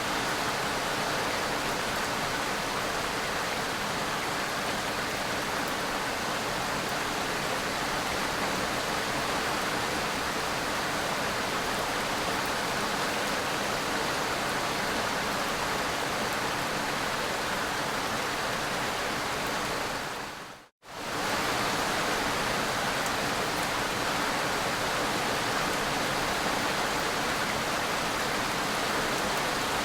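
Steady, dense rain hiss with no distinct drops standing out. About two-thirds of the way in it dips to silence for a moment and comes straight back, like a splice in a looped recording.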